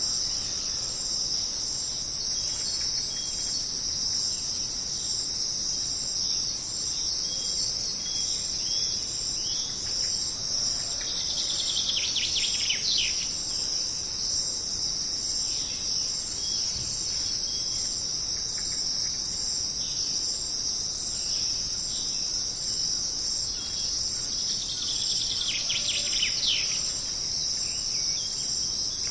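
Steady, high-pitched chorus of jungle insects. Twice, about twelve seconds in and again near the end, a bird gives a quick run of falling notes over it.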